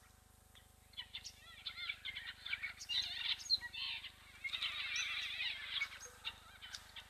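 Several small birds chirping and twittering in quick, overlapping trills that come and go in clusters, busiest around the middle.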